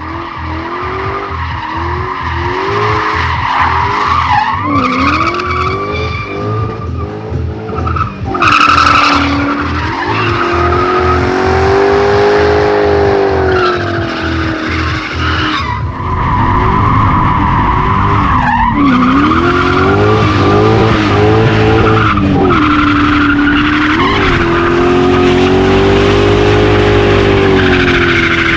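BMW M62B35 3.5-litre V8 revving hard, its pitch rising and falling again and again, while the spinning rear tyres squeal and hiss in a burnout.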